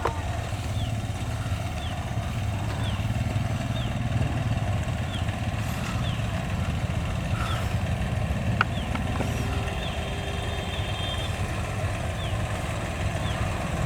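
Motorcycle engine running steadily on the move, a constant low throb with no change in revs.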